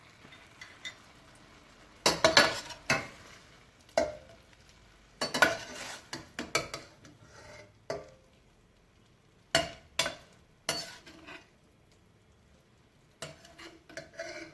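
A cooking utensil scraping and knocking against a frying pan in several separate bursts as the browned chicken pieces are scooped out, some knocks ringing briefly.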